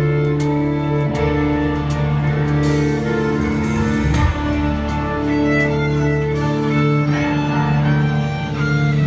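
Live band playing amplified music at a sound check: long held notes over a steady bass line, with sharp drum hits now and then.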